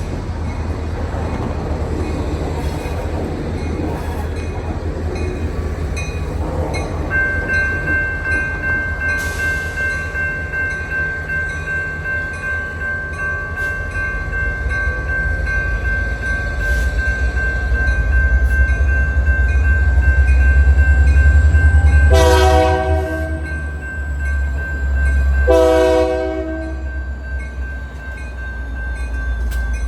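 Union Pacific diesel freight locomotive rumbling past, loudest about two-thirds of the way in. It sounds two short horn blasts near the end, the first a little longer. A steady high-pitched tone runs from about seven seconds in.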